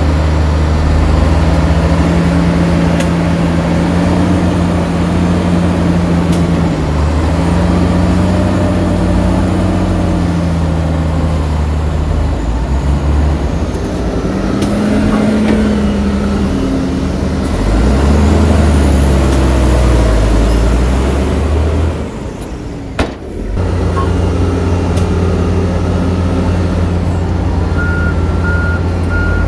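Heavy diesel engines of earthmoving machines working, their note rising and falling with load and throttle. The sound briefly drops away about two-thirds through, and a reversing alarm starts beeping steadily near the end.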